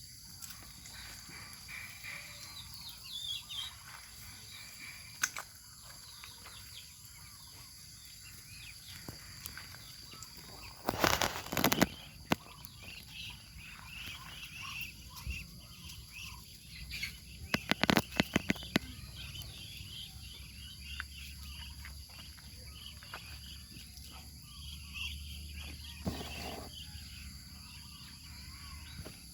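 Steady insect chorus of high, even tones, with faint bird chirps over it. Two clusters of loud, sharp clicks come about a third of the way in and again about two thirds in.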